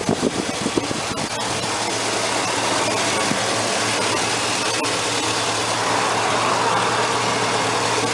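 2000 Chevrolet Silverado 1500 pickup's engine idling steadily: a low, even hum under a broad hiss, with a few light knocks in the first second or so.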